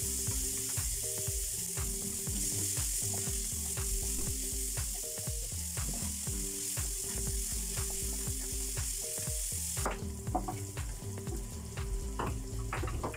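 Chopped shallots, garlic and red chilies sizzling in hot oil in a stainless steel wok, with repeated scrapes and clicks of a spatula stirring them against the pan. The hiss of the sizzle drops off suddenly about ten seconds in while the stirring scrapes go on.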